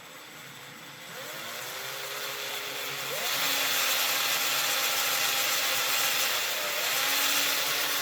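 Small electric drill running and drilling a small hole in the bottom of a 3D-printed plastic dummy shotgun shell, its motor pitch sliding up a few times as it speeds up. It gets louder about three seconds in and stops suddenly at the end.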